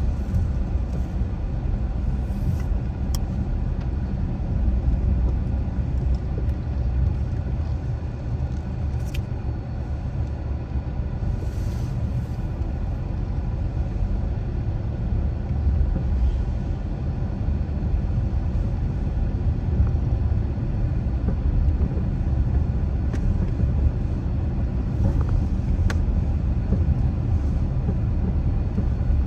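Car driving along a street: a steady low rumble of engine and road noise, with a few faint clicks.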